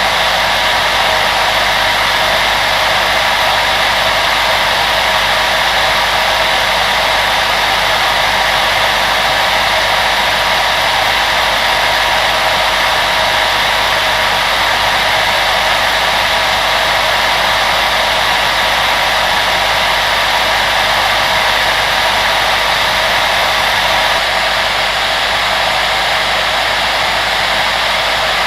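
Steady, continuous rushing of an electric fan appliance blowing air, with a faint steady hum under the noise; the level dips slightly about 24 seconds in.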